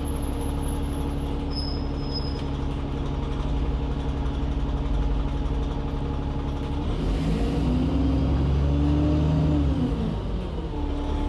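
Alexander Dennis Enviro400 double-decker bus engine heard from inside the bus, running steadily, then pulling away about seven seconds in with its pitch rising, and dropping back near the end as the Voith automatic gearbox changes up.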